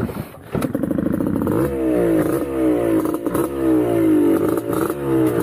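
Trail motorcycle engine revving in repeated surges, its pitch rising again and again about twice a second, after a rougher, clattering first second and a half.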